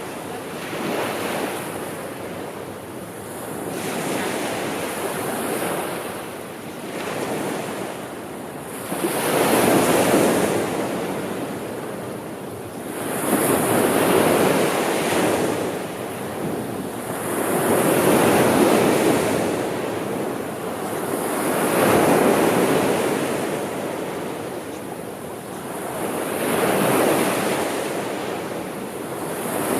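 Gentle sea surf: waves washing in and drawing back in slow surges, one swell roughly every four seconds.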